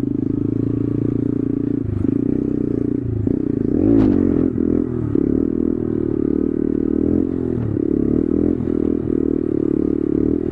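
Honda Grom's 125cc single-cylinder engine running under the rider, the revs rising and falling, with a sharp rev-up about four seconds in.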